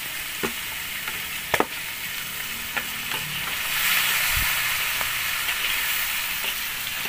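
Chopped meat and intestines sizzling in an aluminium wok, with a few sharp scrapes and knocks of a spoon against the pan. The sizzle grows louder from about four seconds in, as the meat is stirred.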